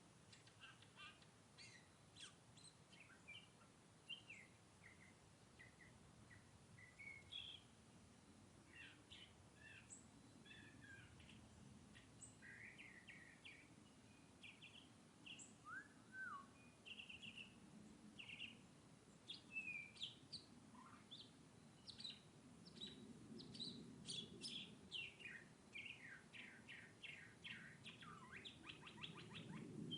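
Northern mockingbird singing faintly: a long string of short, varied chirps and phrases, ending in a fast run of repeated notes.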